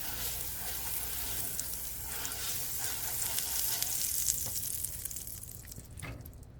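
Melted butter sizzling as it is brushed over a hot pan: a steady hiss that swells, then dies down near the end.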